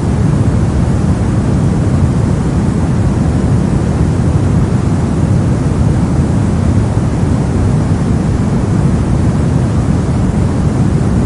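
Steady, unvarying soft noise, heaviest in the low end and tapering off in the highs: a deep, rumbling hiss like pink or brown noise, played as a continuous sleep or study track.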